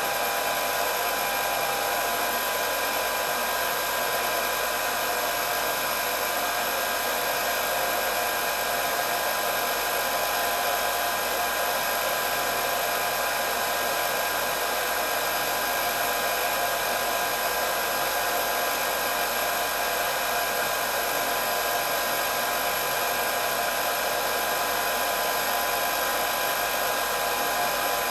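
Hair dryer running continuously on a steady setting: an even rush of blown air with a constant motor whine over it.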